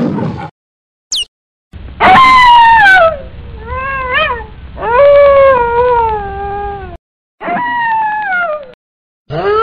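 A series of drawn-out howling, whining calls from a domestic animal, most of them sliding down in pitch, with a wavering one in the middle; a brief high chirp comes just before them.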